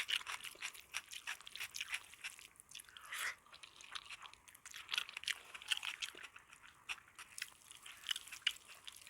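Close-miked chewing of crisp food, a dense run of small crunches and bites with brief pauses between mouthfuls.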